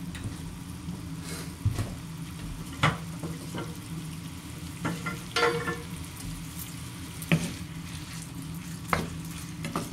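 Scallops sizzling in hot oil and garlic butter in a nonstick frying pan, with a few sharp clicks and knocks scattered through; a wooden spoon stirs them near the end.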